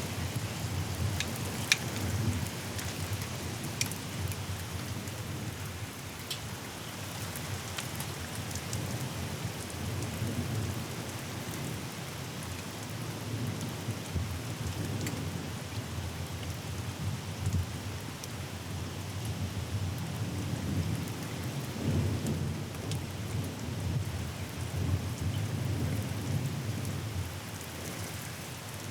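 Thunderstorm: steady rain falling, with low rolling thunder rumbling, swelling and fading several times. Sharp drop ticks stand out in the first few seconds.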